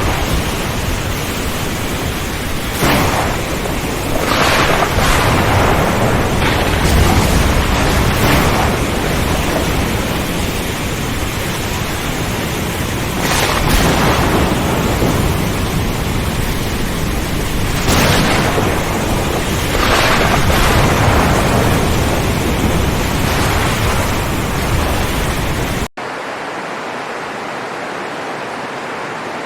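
Heavy rain pouring, with a deep rumble beneath and repeated swells every few seconds. About 26 seconds in it cuts abruptly to a quieter, steadier rushing of water.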